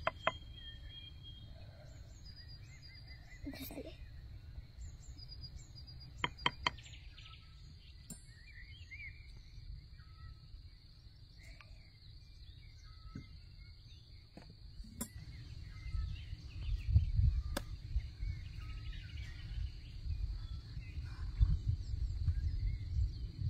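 Small birds chirping in short calls over a steady high tone, with a few sharp clicks or knocks. A low rumble grows louder in the second half.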